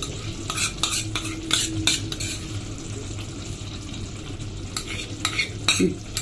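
Spoon stirring chicken curry frying in a pan, scraping against the pan with a sizzle, in a run of strokes in the first couple of seconds and again near the end.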